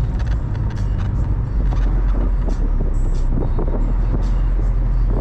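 Mazda Miata driving, with a steady low rumble of engine and road noise.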